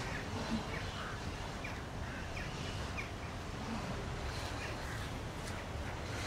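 Outdoor ambience with a bird calling in short, high chirps, repeated about every two-thirds of a second, over a steady low rumble.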